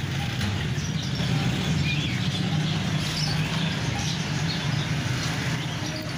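Street ambience dominated by a steady low engine hum of vehicle traffic, with faint bird chirps above it.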